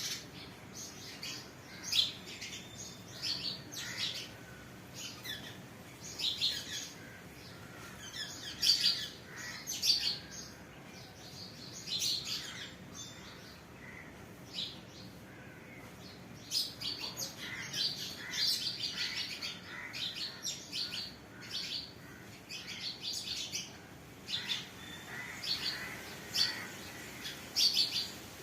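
Birds chirping and tweeting in short high calls that come irregularly, some in quick clusters.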